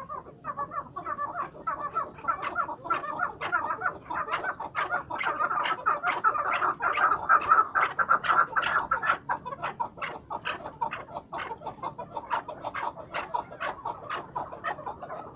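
Chukar partridges calling: a long run of quick, repeated clucking notes, several a second, loudest about halfway through.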